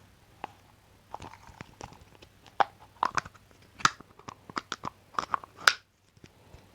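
Scissors making a quick, irregular run of crisp snipping cuts. The last and loudest snip comes near the end, and the sound then stops abruptly.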